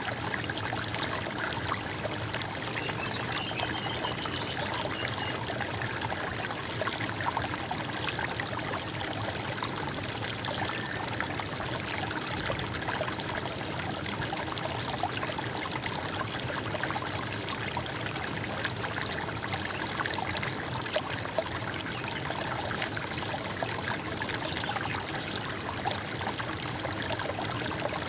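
Water running and gurgling in a small stream, a steady, even rush.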